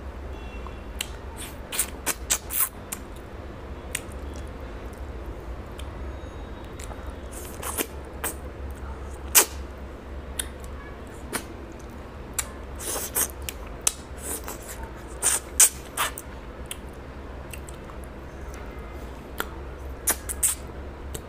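Close-up eating sounds of fish curry and rice eaten by hand: chewing and lip-smacking, with irregular wet clicks and smacks, over a steady low hum.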